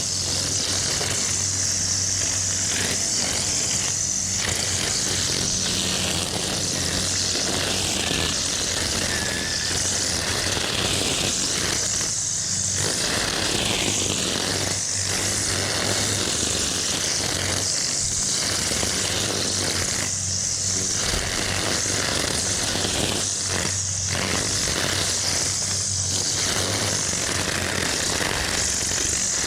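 A small engine running steadily at a constant speed, with a steady low hum and a strong hiss.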